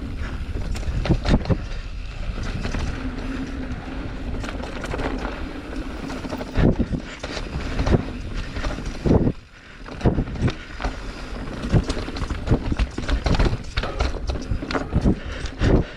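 Transition Spire mountain bike riding down a rough, technical dirt trail: wind noise on the microphone and tyre rumble, broken by frequent sharp knocks and rattles from the bike over the rough ground. The noise drops out briefly just after nine seconds.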